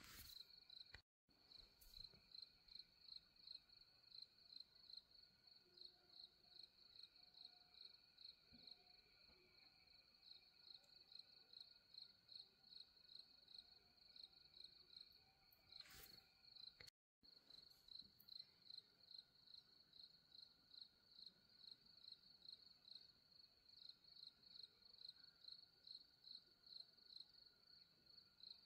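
Crickets chirping faintly in a steady, even pulse of a few high chirps a second. The sound cuts out briefly twice.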